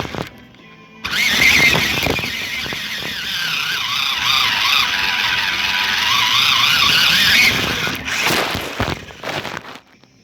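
Toy RC Jeep Wrangler driving, its small electric motor and gears whining with a pitch that wavers up and down over a rough rushing noise. It starts about a second in and dies away near the end.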